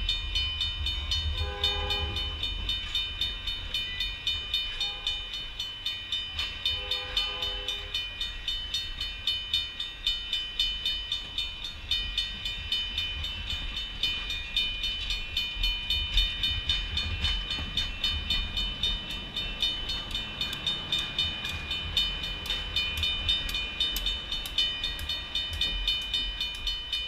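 Railroad crossing bell ringing steadily in a fast repeating pulse as the cars of a passenger train rumble past over the rails. A train horn sounds two short blasts in the first eight seconds.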